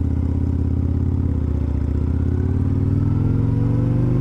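Motorcycle engine running under way, a steady note for about two seconds and then rising gradually as the bike accelerates.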